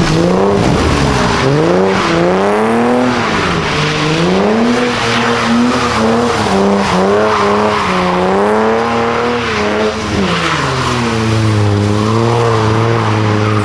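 A car doing a burnout: the engine revs high, its pitch swinging up and down again and again, over the hiss and squeal of spinning tires. About eleven seconds in the revs drop to a steadier, lower note.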